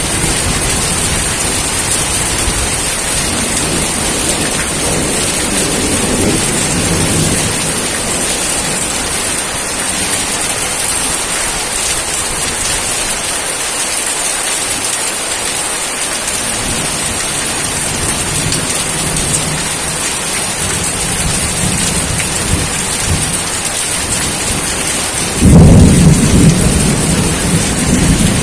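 Steady rain falling, with low rolling thunder in the first part. A sudden loud thunderclap comes near the end and rumbles on.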